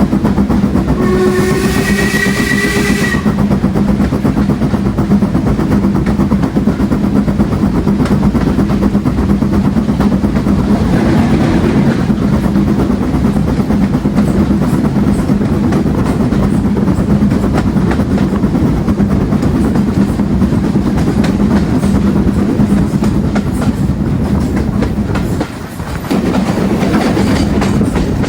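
Steam-hauled train running along the track, heard on board: a steady rumble with rail clatter. A locomotive whistle sounds for about two seconds near the start. The noise dips briefly about 25 seconds in.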